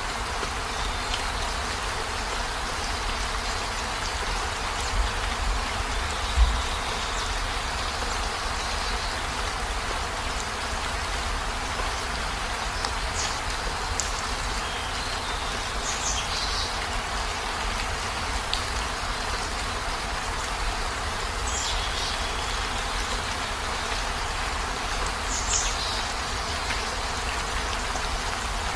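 Steady heavy rain falling, an even hiss with a low rumble underneath. A dull thump stands out about six seconds in, and a few short, high, falling chirps come through in the second half.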